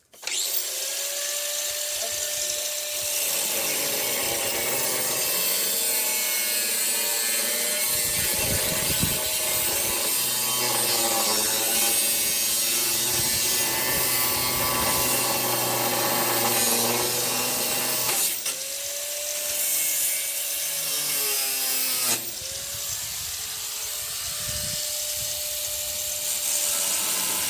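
Power tool spinning up and cutting, a loud harsh noise over a steady motor pitch. It drops off and spins back up twice in the last third.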